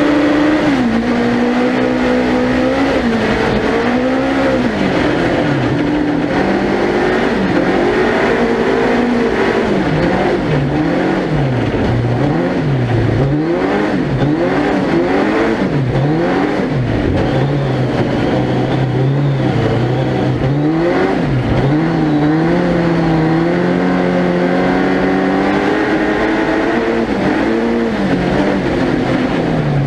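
Suzuki Hayabusa 1300cc four-cylinder motorcycle engine in a four-wheel-drive ice-racing prototype, revving up and down continuously as the car is driven through a sequence of corners, with quick throttle blips and shifts in the middle and a longer steadier pull near the end. Studded tyres add a steady noise underneath.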